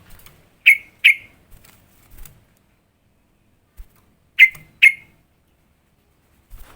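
Sooty-headed bulbul giving short, sharp call notes in two pairs, the pairs about three and a half seconds apart.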